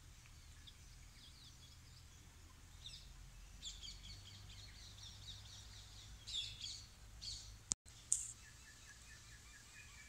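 Faint outdoor ambience of small birds chirping in quick trills and short calls, loudest a little past halfway, over a steady low rumble. A sharp click with a split-second dropout comes about three-quarters of the way through, followed by a run of lower, evenly repeated calls near the end.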